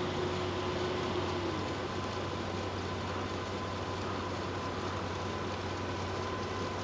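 Idling car engine heard from inside the stopped car's cabin: a steady low hum under an even hiss, with a faint held tone that drops away about a second and a half in.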